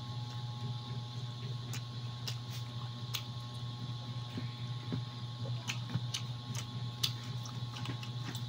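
Someone chewing chicken and rice, with irregular wet clicks and lip smacks, over a steady low hum.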